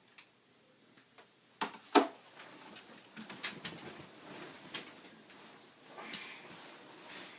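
Two sharp knocks about one and a half to two seconds in, the second the loudest, followed by irregular rustling and light clicks.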